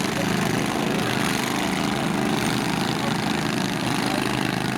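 Small lawn-tractor engines running steadily in a lawn mower demolition derby.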